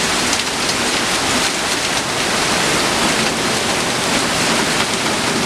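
Torrential rain pouring down steadily, a loud dense hiss of water falling on the street and surfaces, with faint individual drop ticks over it.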